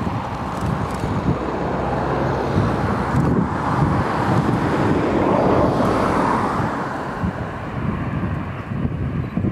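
Boeing 737-800 jet engines heard as the airliner lands, a loud rushing noise that swells to a peak about six seconds in and then eases off. Wind rumbles on the microphone underneath.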